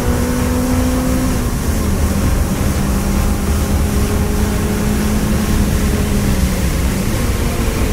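Honda Civic EK4 VTi's 1.6-litre VTEC four-cylinder engine pulling hard, heard from inside the cabin with a heavy rumble of road and wet-tyre noise. Its pitch drops a step about a second in, then holds fairly steady and dips briefly near the end.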